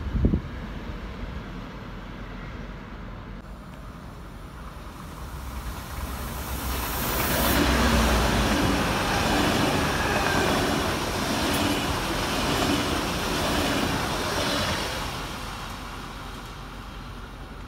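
A Deutsche Bahn ICE train passing close by: a rushing rumble of wheels and air swells over a few seconds, holds for about eight seconds, then fades. A brief sharp knock comes right at the start.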